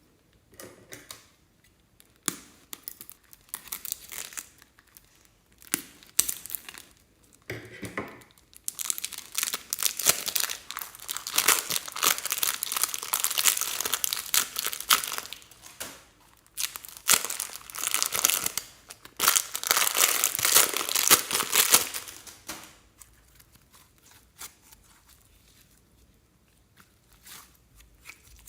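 Crinkling and crackling from slime and plastic piping bags being handled and mixed. Scattered clicks at first, then two long stretches of dense crackling, then it goes faint near the end.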